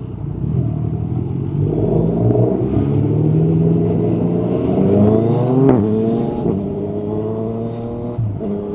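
Yamaha MT-09 SP's inline three-cylinder engine through an Akrapovic carbon exhaust with the dB killer out, accelerating hard: the revs climb for a few seconds, a sharp crack comes as the pitch drops a little past halfway, typical of an upshift, then the revs rise again more slowly and drop once more near the end.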